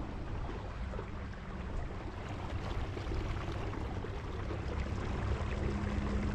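Wind buffeting the microphone with water lapping against a kayak, a steady rumbling rush with small scattered ticks. A low steady hum joins near the end.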